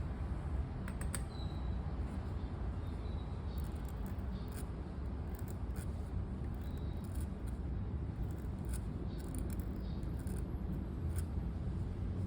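Pen nib scratching across paper in short, irregular strokes, over a steady low background rumble, with a few faint high bird chirps.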